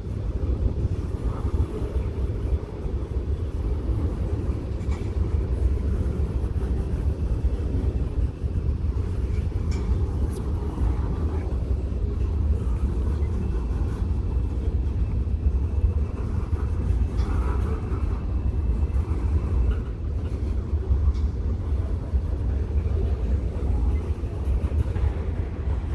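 Freight cars of a long manifest train rolling past, a steady low rumble.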